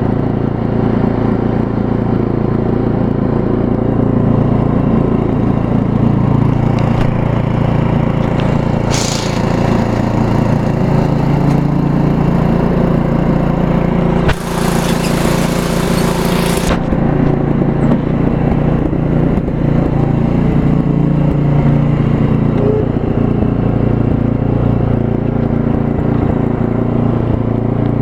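Craftsman Ride and Mulch riding lawn mower's engine running steadily under way, in need of a new exhaust. About halfway through, a hissing noise rises over it for about two seconds.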